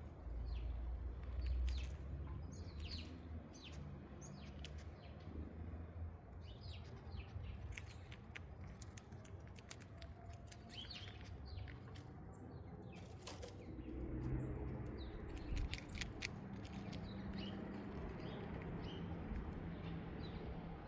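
Small birds chirping with many short, scattered calls, over a steady low rumble.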